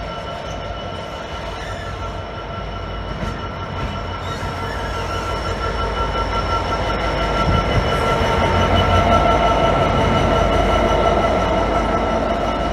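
A train passing on the line, its rumble growing louder to a peak about three quarters of the way through and then easing slightly. Steady high-pitched tones from the wheels or running gear run over the rumble.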